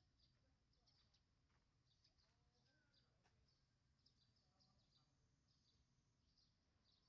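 Near silence: faint, high bird chirps repeating several times a second, over a low steady hum of outdoor room tone.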